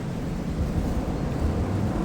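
Wind buffeting the microphone outdoors: an uneven low rumble.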